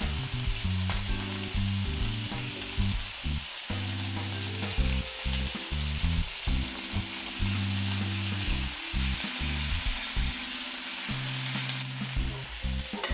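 Duck breast frying in rendered duck fat and melting butter with shallots, garlic and orange peel: a steady sizzle, with background music playing underneath.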